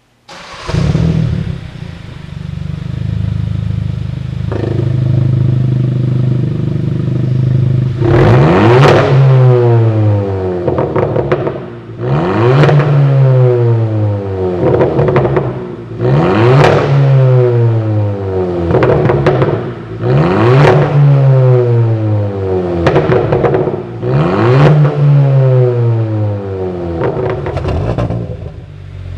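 Kia Sportage NQ5's 1.6-litre turbo four-cylinder, through a tuned centre-muffler and dual variable-valve exhaust, starts and settles to idle. It is then revved about six times, roughly every four seconds, with a deep tone and crackling pops as each rev falls away.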